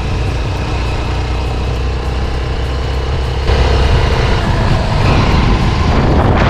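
Motorcycle engine running on the move, with a steady low rumble of engine and road noise; it gets louder about halfway through.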